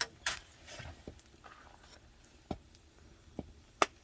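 A few sharp knocks and clicks of wood, spaced irregularly, with the loudest just before the end.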